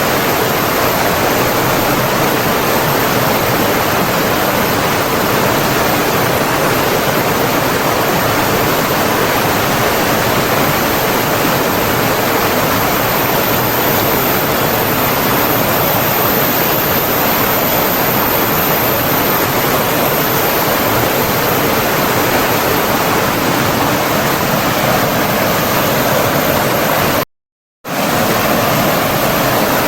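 Flowing water from a stream or waterfall: a steady, even rushing, which cuts out completely for about half a second near the end before resuming.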